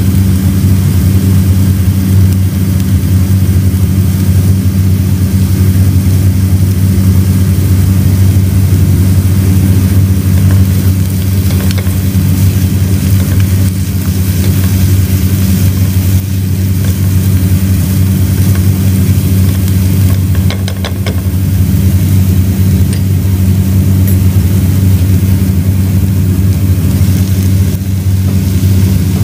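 A loud, steady low hum, with vegetables frying in a pot and a wooden spatula stirring them; a few clicks of the spatula against the pot come about two-thirds of the way in.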